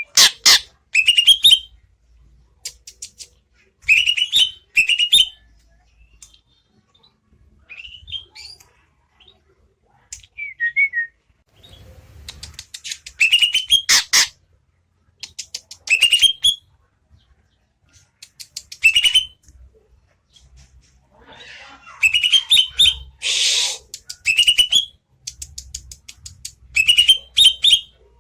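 Greater green leafbird (cucak ijo) singing: short loud bursts of quick whistled and chattering notes, often rising in pitch, repeated every second or two with brief pauses between.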